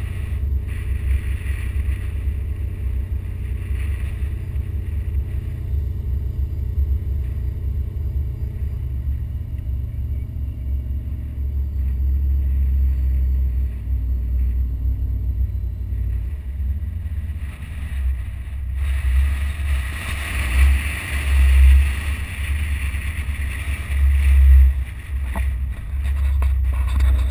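Car engine running at low speed with a steady low rumble, heard from a microphone on the outside of the car. From about two-thirds of the way in, wind buffets the microphone in gusts.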